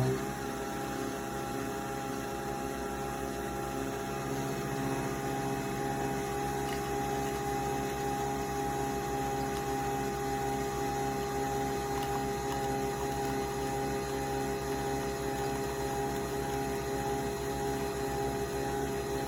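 Nespresso Vertuo Next coffee machine brewing: a steady motor hum with a fast low pulsing, from the spinning capsule and the water pump.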